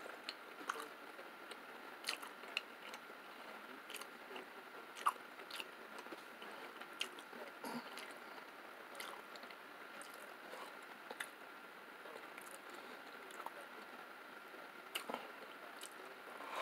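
A person chewing and biting into a slice of pizza, with soft irregular mouth clicks and small crunches of the crust.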